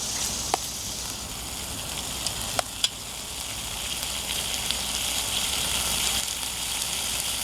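Pork shoulder and bacon frying in plenty of hot oil in a thin aluminium pot, a steady loud sizzle with a few sharp pops.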